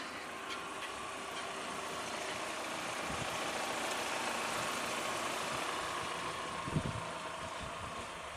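GAZ Sobol's ZMZ-409 twin-cam four-cylinder petrol engine idling steadily, with a brief low thud a little before the end. The noise from the cylinder head is what the mechanics take for the camshafts knocking loose in their bearings ("dancing in their beds"), with oil pressure falling toward zero.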